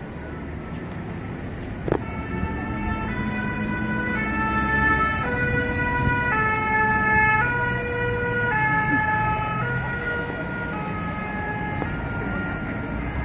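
Ambulance two-tone siren sounding over traffic, its two pitches alternating about every two-thirds of a second. It grows louder toward the middle, then fades as the vehicle passes.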